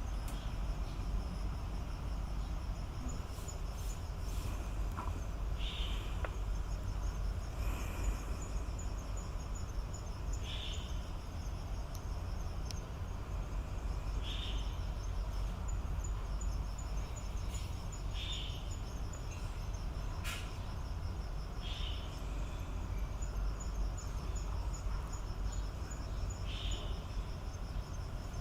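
Insects trilling in a high, steady dotted trill over a low steady rumble. A short, higher call of unclear source repeats about every four seconds.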